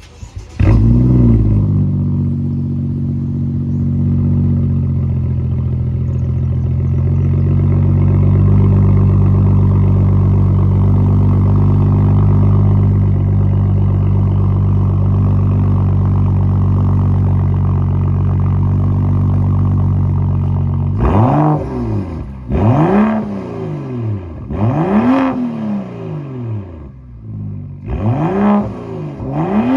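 Straight-piped exhaust of a BMW F10 sedan: the engine starts with a quick flare in revs and settles into a steady, loud idle. From about two-thirds of the way in, it is blipped up and down several times in quick revs.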